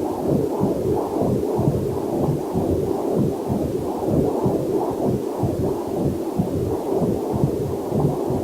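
Heartbeat picked up by a fetal Doppler monitor: a rapid, even run of whooshing pulses, about two to three a second, with a faint waterfall mixed in underneath.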